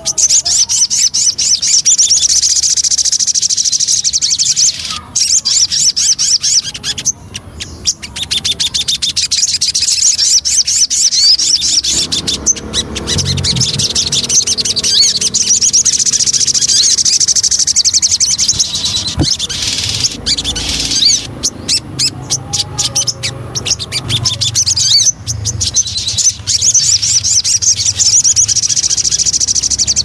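Sogon bird song: long runs of fast, high-pitched chattering and trilling, broken by a few short pauses. A low hum sits beneath it from about twelve seconds in.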